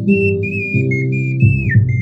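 Ocarina playing a high, pure-toned melody, note to note with a short downward slide near the end, over a backing accompaniment.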